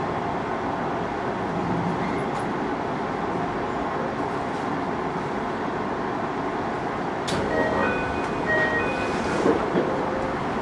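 Interior running noise of a JR Hokkaido 733-series electric train slowing to a stop at a station platform, a steady rumble. About seven seconds in a sharp click is heard, followed by a few short electronic tones and a brief hiss.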